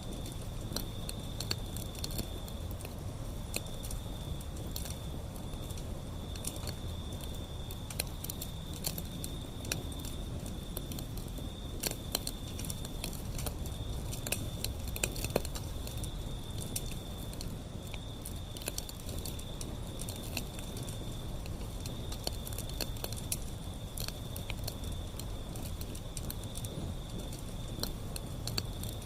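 Wood fire burning, with frequent sharp crackles and pops over a low rumble. A thin high tone pulses on and off about once a second throughout.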